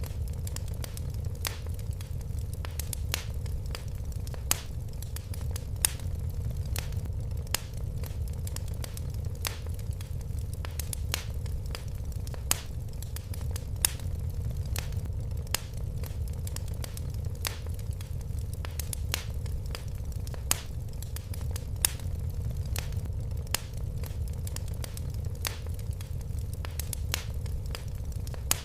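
Fire crackling: irregular sharp pops and snaps, several a second, some louder than others, over a steady low rumble of the flames.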